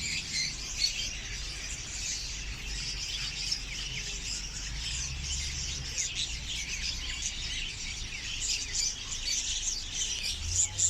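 Many caged lovebirds chirping and chattering at once, a dense, unbroken high-pitched twittering.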